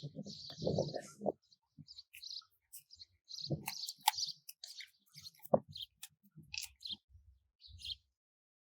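Birds chirping in short scattered calls, mixed with low rustling and a few sharp clicks and knocks; everything falls silent about a second before the end.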